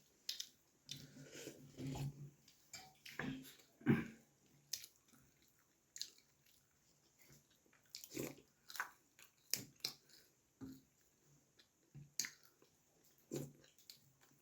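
A person chewing and eating puri with vegetable curry, with irregular wet mouth smacks and small clicks.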